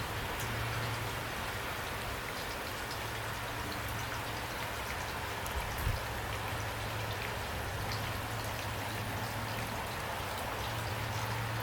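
Steady rain falling, with scattered individual drops striking sharply over an even hiss and a low steady hum underneath. A single low thump comes about six seconds in.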